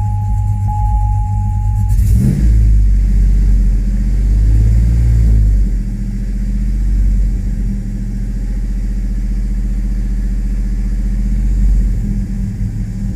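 A 2005 Chevrolet Tahoe's 5.3-litre V8 engine, a truck that stalls and runs rough, running. A steady high tone sounds for the first two seconds, then the engine grows louder about two seconds in, swells briefly and settles into a steady run.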